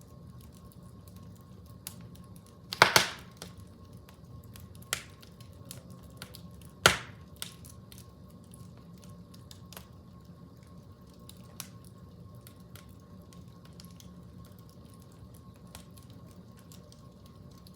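Wood fire crackling: scattered small snaps and ticks, with two loud pops about three and seven seconds in.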